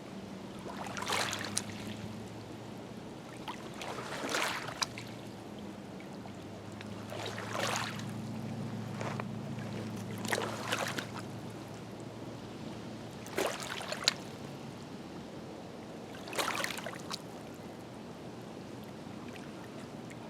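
Small waves lapping and splashing against the shore about every three seconds. A low steady hum sits underneath for the first half and fades away about twelve seconds in.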